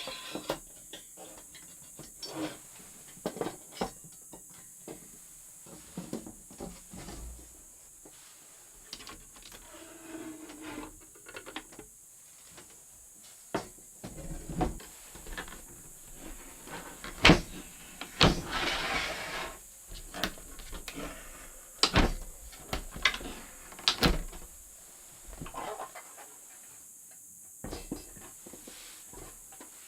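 Irregular clicks, knocks and light clatter of objects being handled at close range, with a short hiss about eighteen seconds in.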